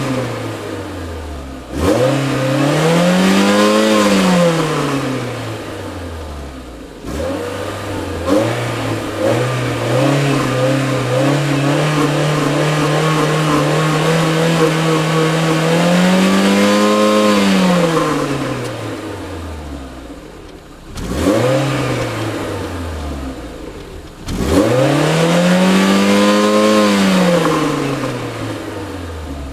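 Renault Clio Renaultsport 197's naturally aspirated 2.0-litre four-cylinder engine being revved repeatedly, the pitch rising and falling back each time. In the middle one rev is held steady for several seconds before climbing once more and dropping, with a short blip about three-quarters of the way through and a final rev near the end.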